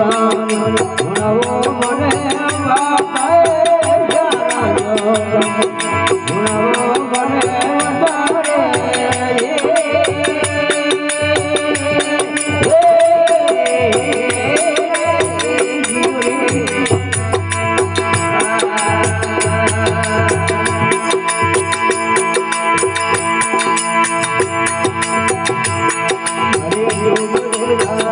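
Rajasthani desi bhajan music, a passage without clear words: a gliding melody line over a fast, steady jingling rattle beat.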